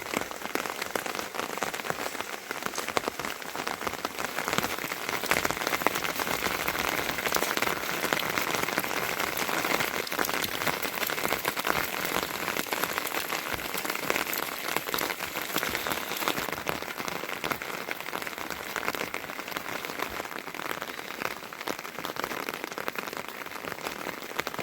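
Heavy rain falling steadily: a dense, even hiss of many drops striking surfaces.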